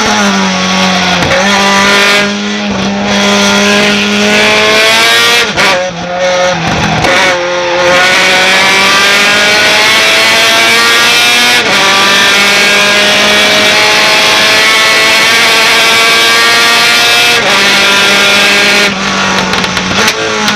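Racing pickup truck engine at full throttle. Its pitch climbs steadily and drops at several gear changes, with brief lifts off the throttle around 6 and 19 seconds in.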